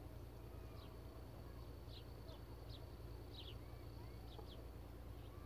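Small birds chirping faintly: short, high, falling chirps a few times a second, unevenly spaced, over a steady low hum.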